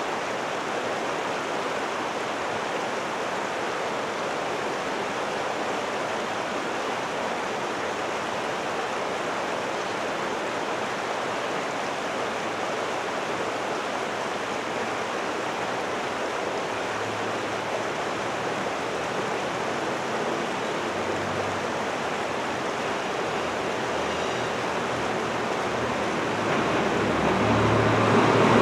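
A steady rushing noise like running water or wind. A low rumble from an approaching regional train grows louder over the last few seconds.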